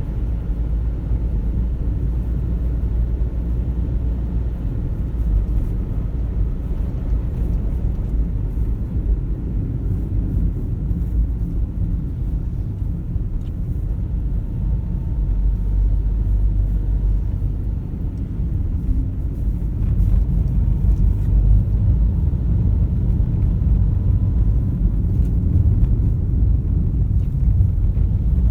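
Car on the move: a steady low rumble of engine and road noise, a little louder over the last third.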